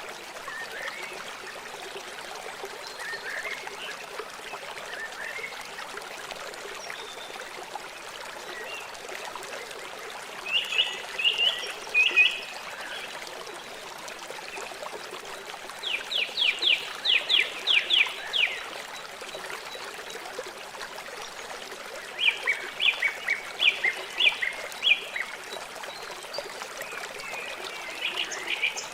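River water flowing steadily. A bird sings three loud bouts of quick repeated high notes over it, about a third, three fifths and four fifths of the way through.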